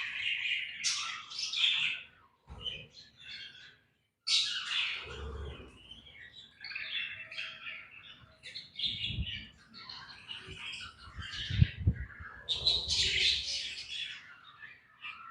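A colony of budgerigars chirping and squawking in quick, overlapping bursts, with a few short gaps. A few dull low thumps come through, the loudest about three quarters of the way in.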